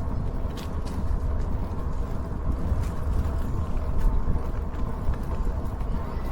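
Riding an e-bike: wind buffeting the microphone and road noise make a steady low rumble, with a faint steady hum above it and a few light ticks.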